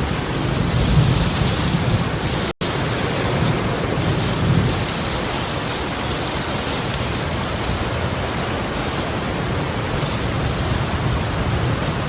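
Torrential rain pouring down in a steady hiss, with low rumbling swells a second in and again around four and a half seconds. The sound drops out for an instant about two and a half seconds in.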